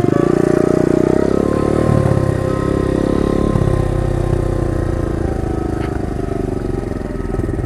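Pit bike engine running, its note shifting a little partway through.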